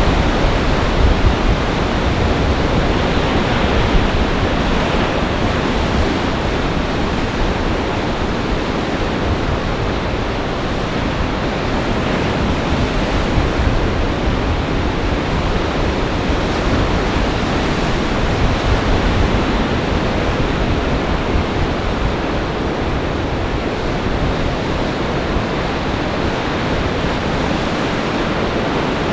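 Storm surf on Lake Michigan breaking under a gale-force wind: a loud, steady rush of waves and wind, with wind rumbling on the microphone.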